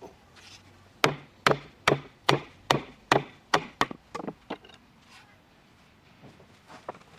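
A tool striking wood: a steady series of about ten sharp knocks, some two and a half a second, that stop about four and a half seconds in, followed by a few faint taps.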